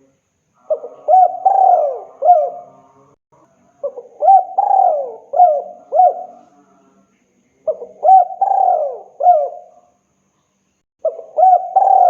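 Spotted dove (tekukur) cooing repeatedly, a male's call to a female. Four cooing phrases about every three to four seconds, each a quick run of several rising-and-falling coos, with short pauses between.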